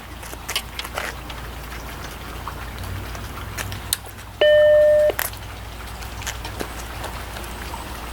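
Macintosh Plus startup beep: a single steady, pure-sounding tone lasting under a second, about four seconds in. Under it runs a low steady hum with scattered small clicks and taps.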